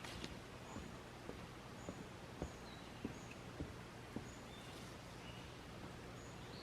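Faint footsteps of a person walking at a steady pace, about two steps a second, with short high bird chirps repeating in the background.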